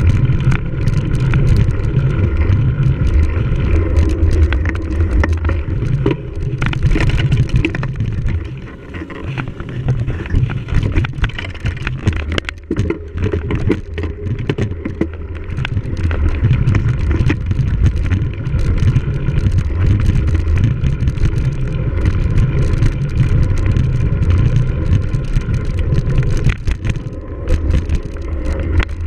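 Wind rumble on the microphone of a camera riding on a cyclocross bike at race speed, with frequent rattles and knocks from the bike over rough ground. The rumble eases twice near the middle.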